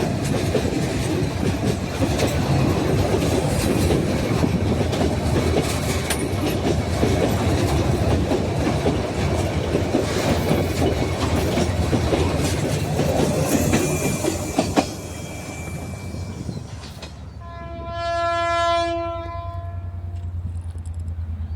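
A train rolling past, its wheels clattering over the rail joints with many sharp clicks, until the sound drops away about 15 seconds in. A few seconds later a train horn sounds one steady blast of about two seconds, followed by a low, steady locomotive engine hum.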